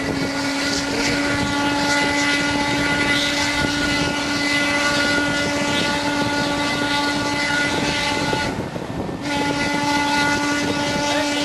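Steam locomotive whistle blowing one long steady note over the noise of the running train, cutting off briefly about three-quarters of the way through and then sounding again.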